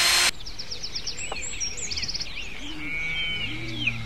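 A power drill spinning its bit in a coaxial antenna connector stops abruptly about a third of a second in. After that, birds chirp and twitter in the background, with a few lower repeated calls.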